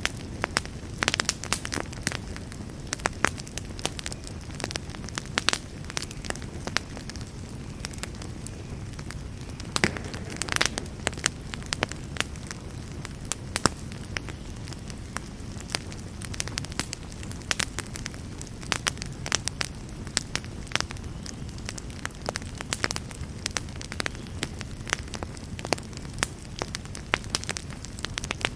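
Wood campfire burning, with a low steady rumble of flame and frequent irregular crackles and pops.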